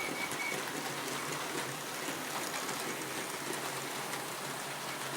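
Hornby 00 gauge EMU model train running round the layout: a steady rushing whir of the motor and wheels on the track, with a faint high squeak from the model that fades out about half a second in.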